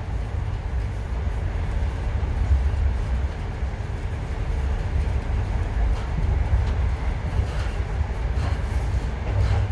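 Passenger train running along the rails, heard from on board: a steady low rumble with rushing noise, and a few faint clicks near the end.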